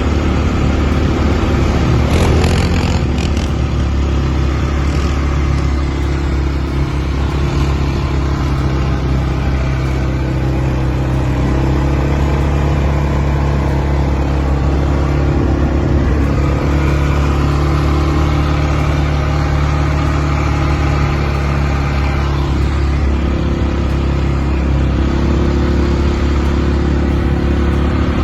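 Vehicle engine running steadily while riding along, its pitch shifting a few times.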